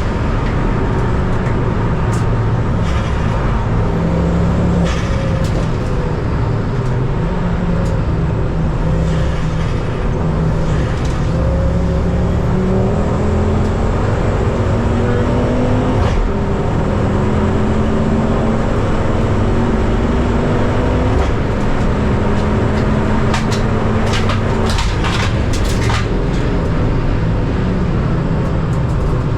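Ford Focus ST race car's engine running hard at racing speed, its pitch climbing through each gear and dropping at the shifts and braking zones.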